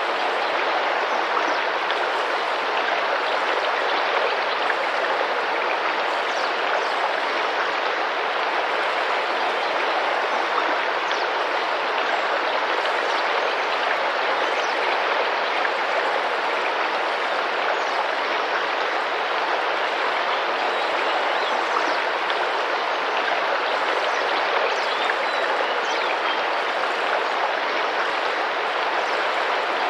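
Tropical rainforest river running and splashing over rocks, a steady, even rush of water. Faint, short high bird calls come through it every few seconds.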